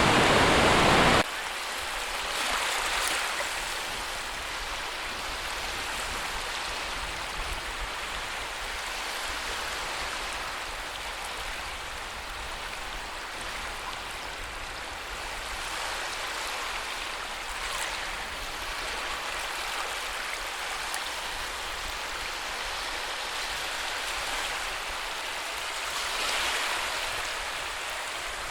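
Sea surf washing in as a steady hiss of water, swelling gently every several seconds. A much louder stretch of the same rushing noise cuts off abruptly about a second in.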